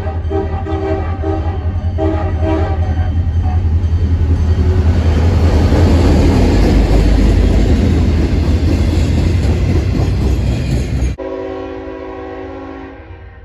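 CSX diesel freight locomotives sounding their air horn in several short blasts. The heavy rumble of the engines and cars then builds as the train passes close. After an abrupt cut near the end, one long horn blast fades away.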